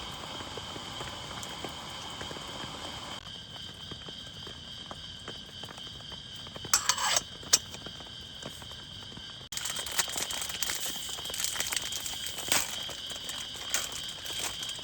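Steady rain hiss with a constant high insect-like tone, turning into denser, sharper drop ticks in the last third. A brief falling squeak sounds about seven seconds in.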